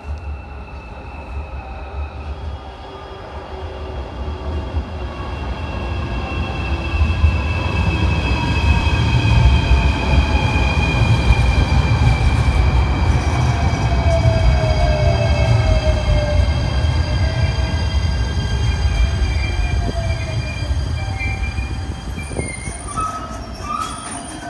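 JR Shikoku 8600 series electric train pulling into the station and slowing. A low rumble of wheels on rail builds to its loudest as the cars pass, then eases, under whining tones that slowly fall in pitch as it slows.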